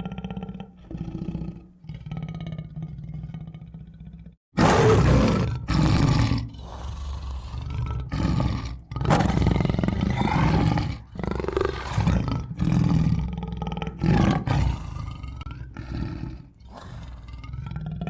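Tiger roaring and growling in a series of loud, rough roars with short pauses between them, starting after a brief gap about four and a half seconds in. Before that, quieter background music plays.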